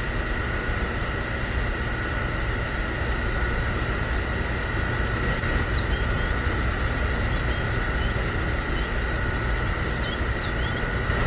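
A small machine motor running steadily with a constant high whine over a low rumble. Short high chirps repeat through the second half.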